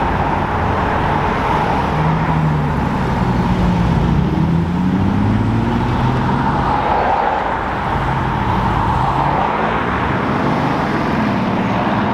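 Car engines at low revs as cars drive slowly out past the spot, their pitch rising and falling gently over steady road noise.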